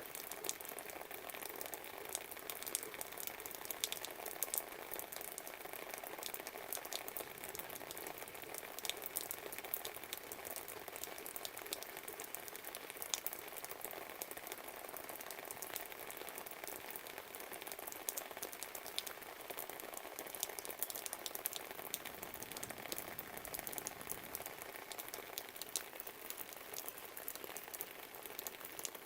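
Steady rain, with many irregular drips pattering close by over an even hiss.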